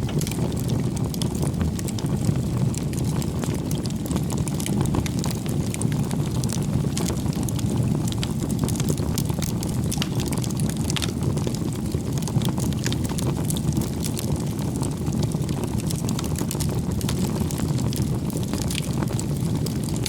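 Wood fire burning: a steady low rumble of flames with frequent sharp crackles and pops from the burning logs.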